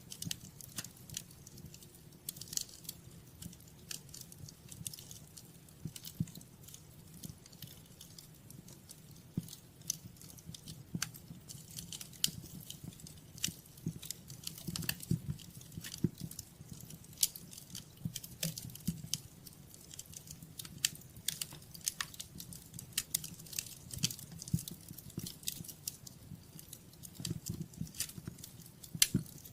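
Wood fire crackling in a fireplace: frequent irregular sharp pops and snaps over a low, soft rumble of burning.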